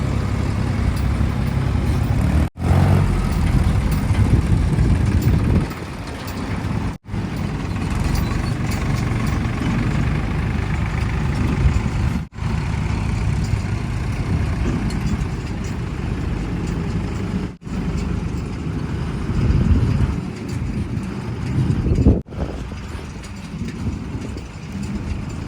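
Heavy diesel engines running under machinery and truck work, broken by brief sharp drops in sound about every five seconds.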